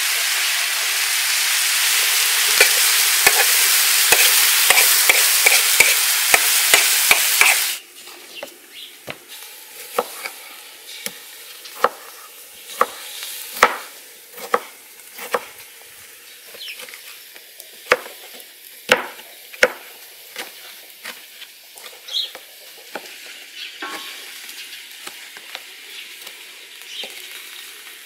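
Chicken pieces sizzling loudly in a hot saj pan over a wood fire, with sharp clicks about twice a second. About eight seconds in the sizzle cuts off. Then comes a kitchen knife slicing and dicing tomatoes on a wooden cutting board: quieter, irregular sharp knocks of the blade on the board.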